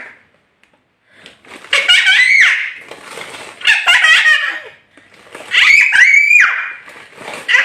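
High-pitched squeals and laughter from a young child, in about four bursts a second or so long, with short gaps between them.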